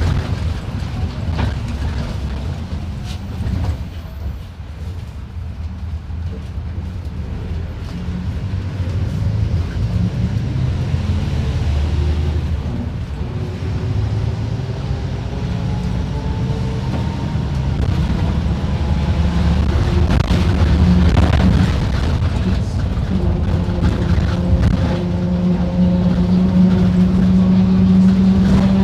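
Diesel engine of a Mercedes-Benz OF-1721 BlueTec 5 bus running under load, its pitch rising and falling as the bus pulls away and changes speed. It grows louder and steadier toward the end.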